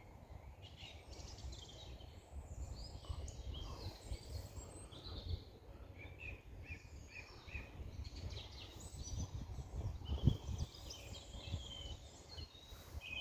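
Small songbirds chirping, short quick notes repeated in little runs and overlapping, over a steady low rumble.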